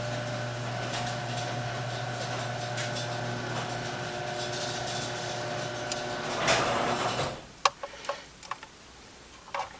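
A steady electric motor hum that swells briefly and cuts off about seven seconds in, followed by a few sharp clicks.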